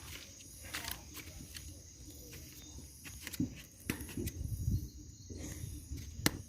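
Steady high chirring of insects, with scattered sharp clicks and knocks and a louder burst of low rustling and knocking partway through. One loud sharp crack comes near the end.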